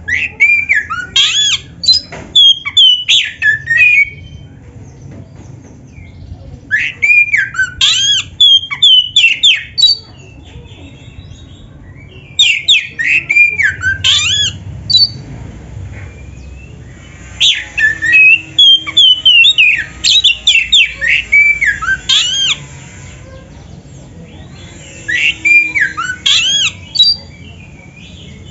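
Oriental magpie-robin (kacer) singing loudly in five bursts of varied, fast whistled phrases with sliding notes, each a few seconds long and separated by short pauses.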